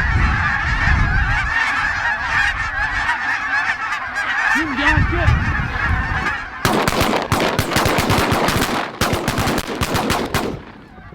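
A flock of geese honking, many calls overlapping, then about six and a half seconds in a rapid volley of shotgun blasts from several hunters firing together for about four seconds.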